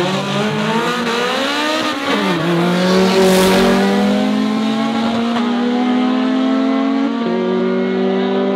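Two street-racing cars launching side by side and accelerating hard. Engine pitch climbs, drops at a gear shift a bit over two seconds in, climbs again and drops at another shift about seven seconds in, as the cars pull away.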